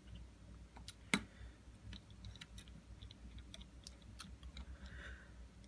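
Faint, scattered clicks and ticks of a small screwdriver and tiny screws being handled while taking apart an iPhone 6, with one sharper click about a second in.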